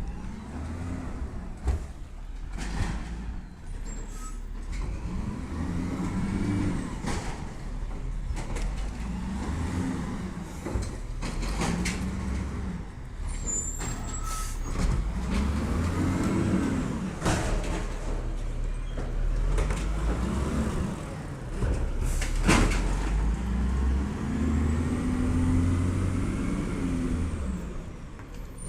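Peterbilt 320 automated side-loader garbage truck at work: its engine revs up and falls back over and over, about every two seconds, with sharp knocks and bangs now and then.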